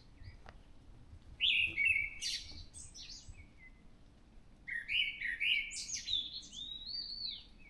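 A thrush singing: a short phrase of high, gliding notes about a second and a half in, then a longer, varied phrase from about five seconds in.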